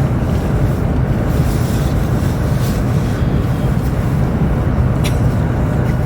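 Steady low rumble of a high-speed train running at speed, heard from inside the passenger car. A few faint, brief hisses ride over it.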